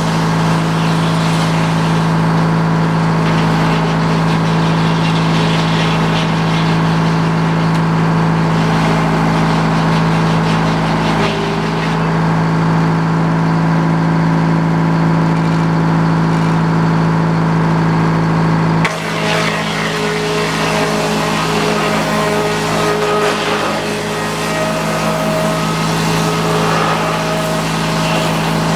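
Sawmill engine running steadily at constant speed. About two-thirds of the way through the sound changes abruptly, and short higher tones come and go after that.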